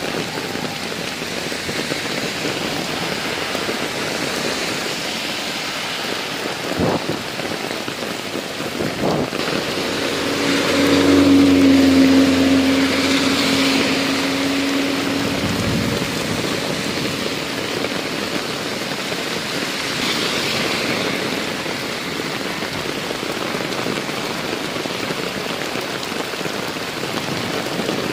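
Heavy rain falling steadily on a road and pavement. Vehicles pass on the wet road with tyre hiss, and one passing engine is loudest about a third of the way through. There are two brief knocks a little before that.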